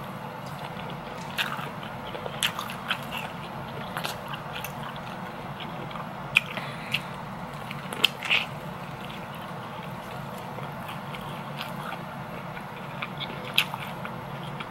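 A person chewing food, with scattered sharp mouth clicks and smacks over a faint steady hum.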